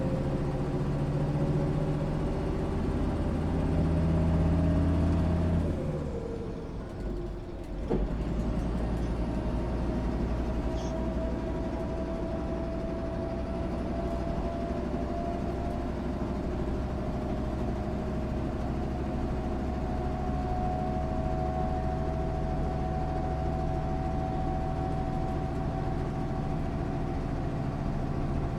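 MAN SÜ 272 bus running, its engine note rising under load for the first five seconds or so, then falling away sharply. There is a click near eight seconds, after which the bus runs steadily with a thin whine slowly rising in pitch.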